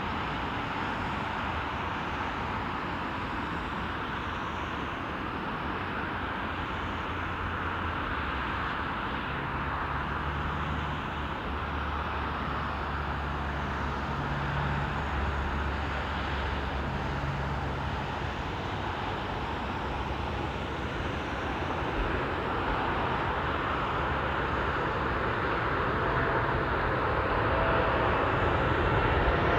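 Jet engines of a passenger airliner on approach to land, a steady rushing drone that grows gradually louder as the aircraft nears, most of all in the last few seconds.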